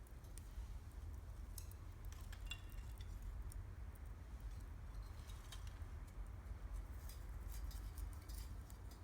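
Wood campfire crackling: scattered sharp pops and ticks in two clusters, one with a brief ringing ping, over a steady low rumble.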